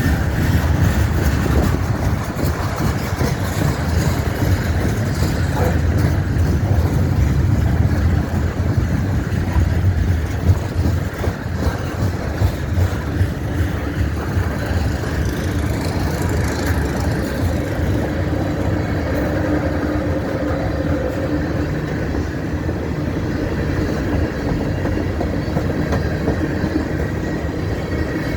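Freight train cars rolling past: a steady low rumble of steel wheels on the rails, with a few sharper clanks about a third of the way in.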